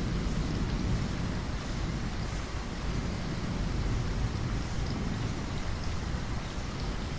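Steady rain falling, with a low continuous rumble of thunder underneath.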